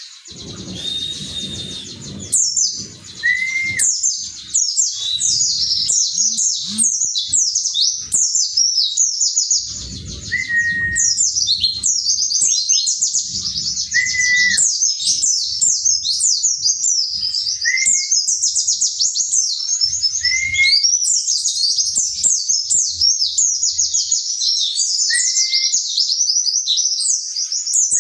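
White-eye (pleci) singing a fast, continuous twittering song, with a short rising note repeated every few seconds.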